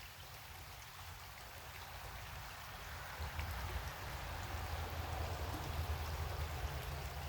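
Creek water running steadily, with a low rumble growing louder about three seconds in.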